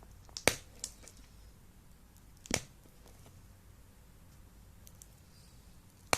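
A few sharp snaps against a quiet background: the loudest about half a second in with a smaller one just after, another about two and a half seconds in, and a last sharp one at the very end.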